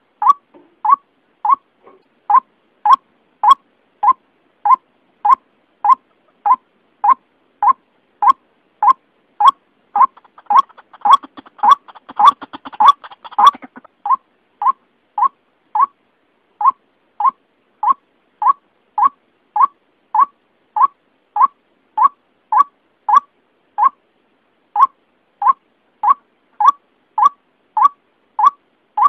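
White-breasted waterhen lure call: one short note repeated steadily, about three every two seconds. For a few seconds in the middle a faint rapid rattle is layered in.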